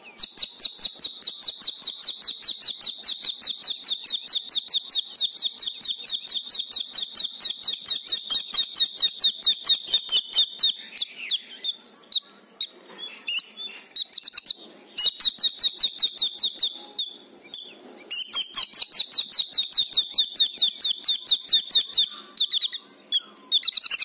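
A bird calling in long fast runs of short high notes, about five a second, with a couple of breaks filled by scattered notes.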